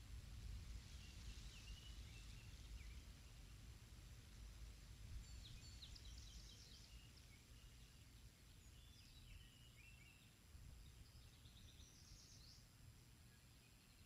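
Faint bird song: short clusters of high chirps and sweeps, heard four times, over a steady low rumble.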